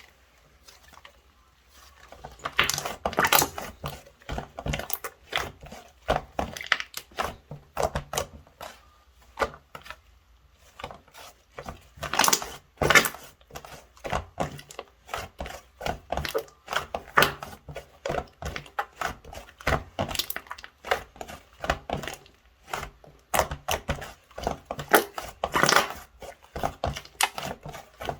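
White slime squeezed and kneaded by hand, giving rapid, irregular clicks and pops. The clicking starts about two seconds in and pauses briefly near the middle.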